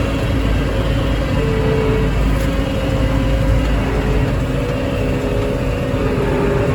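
Farm machine's engine running steadily while bales are loaded, with a whine that shifts in pitch now and then.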